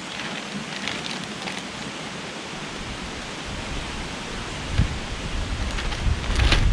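Steady rushing wind noise, with a few faint brief rustles about a second in; from about five seconds in, gusts buffet the microphone with a low rumble.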